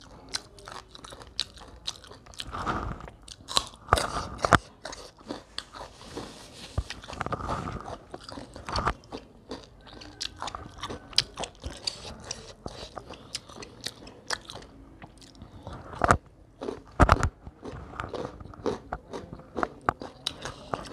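Close-miked eating sounds from a person eating curry and rice by hand: chewing and wet mouth smacks, many short irregular clicks.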